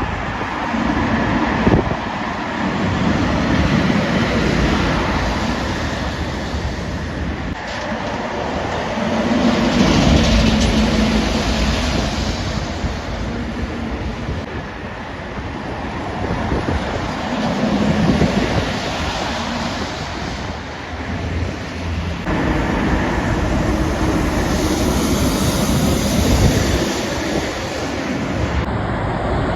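Heavy trucks passing one after another on a main road, engine and tyre noise swelling and fading with each pass, about four times.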